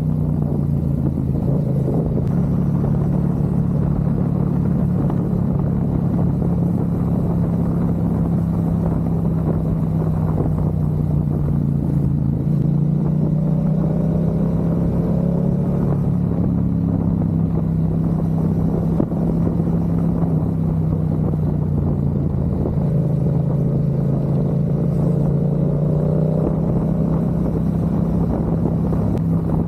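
Motorcycle engine running at a steady cruise under road and wind noise, its note shifting a little twice, as with small changes of throttle.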